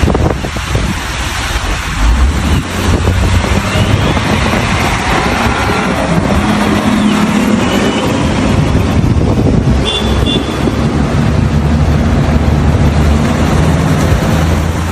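Road traffic: vehicle engines running with a steady low hum under continuous road noise.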